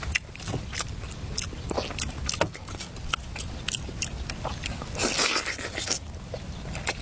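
Close-up eating: irregular sharp clicks and crunches of chewing and biting food, with a louder noisy crunching stretch lasting about a second, about five seconds in.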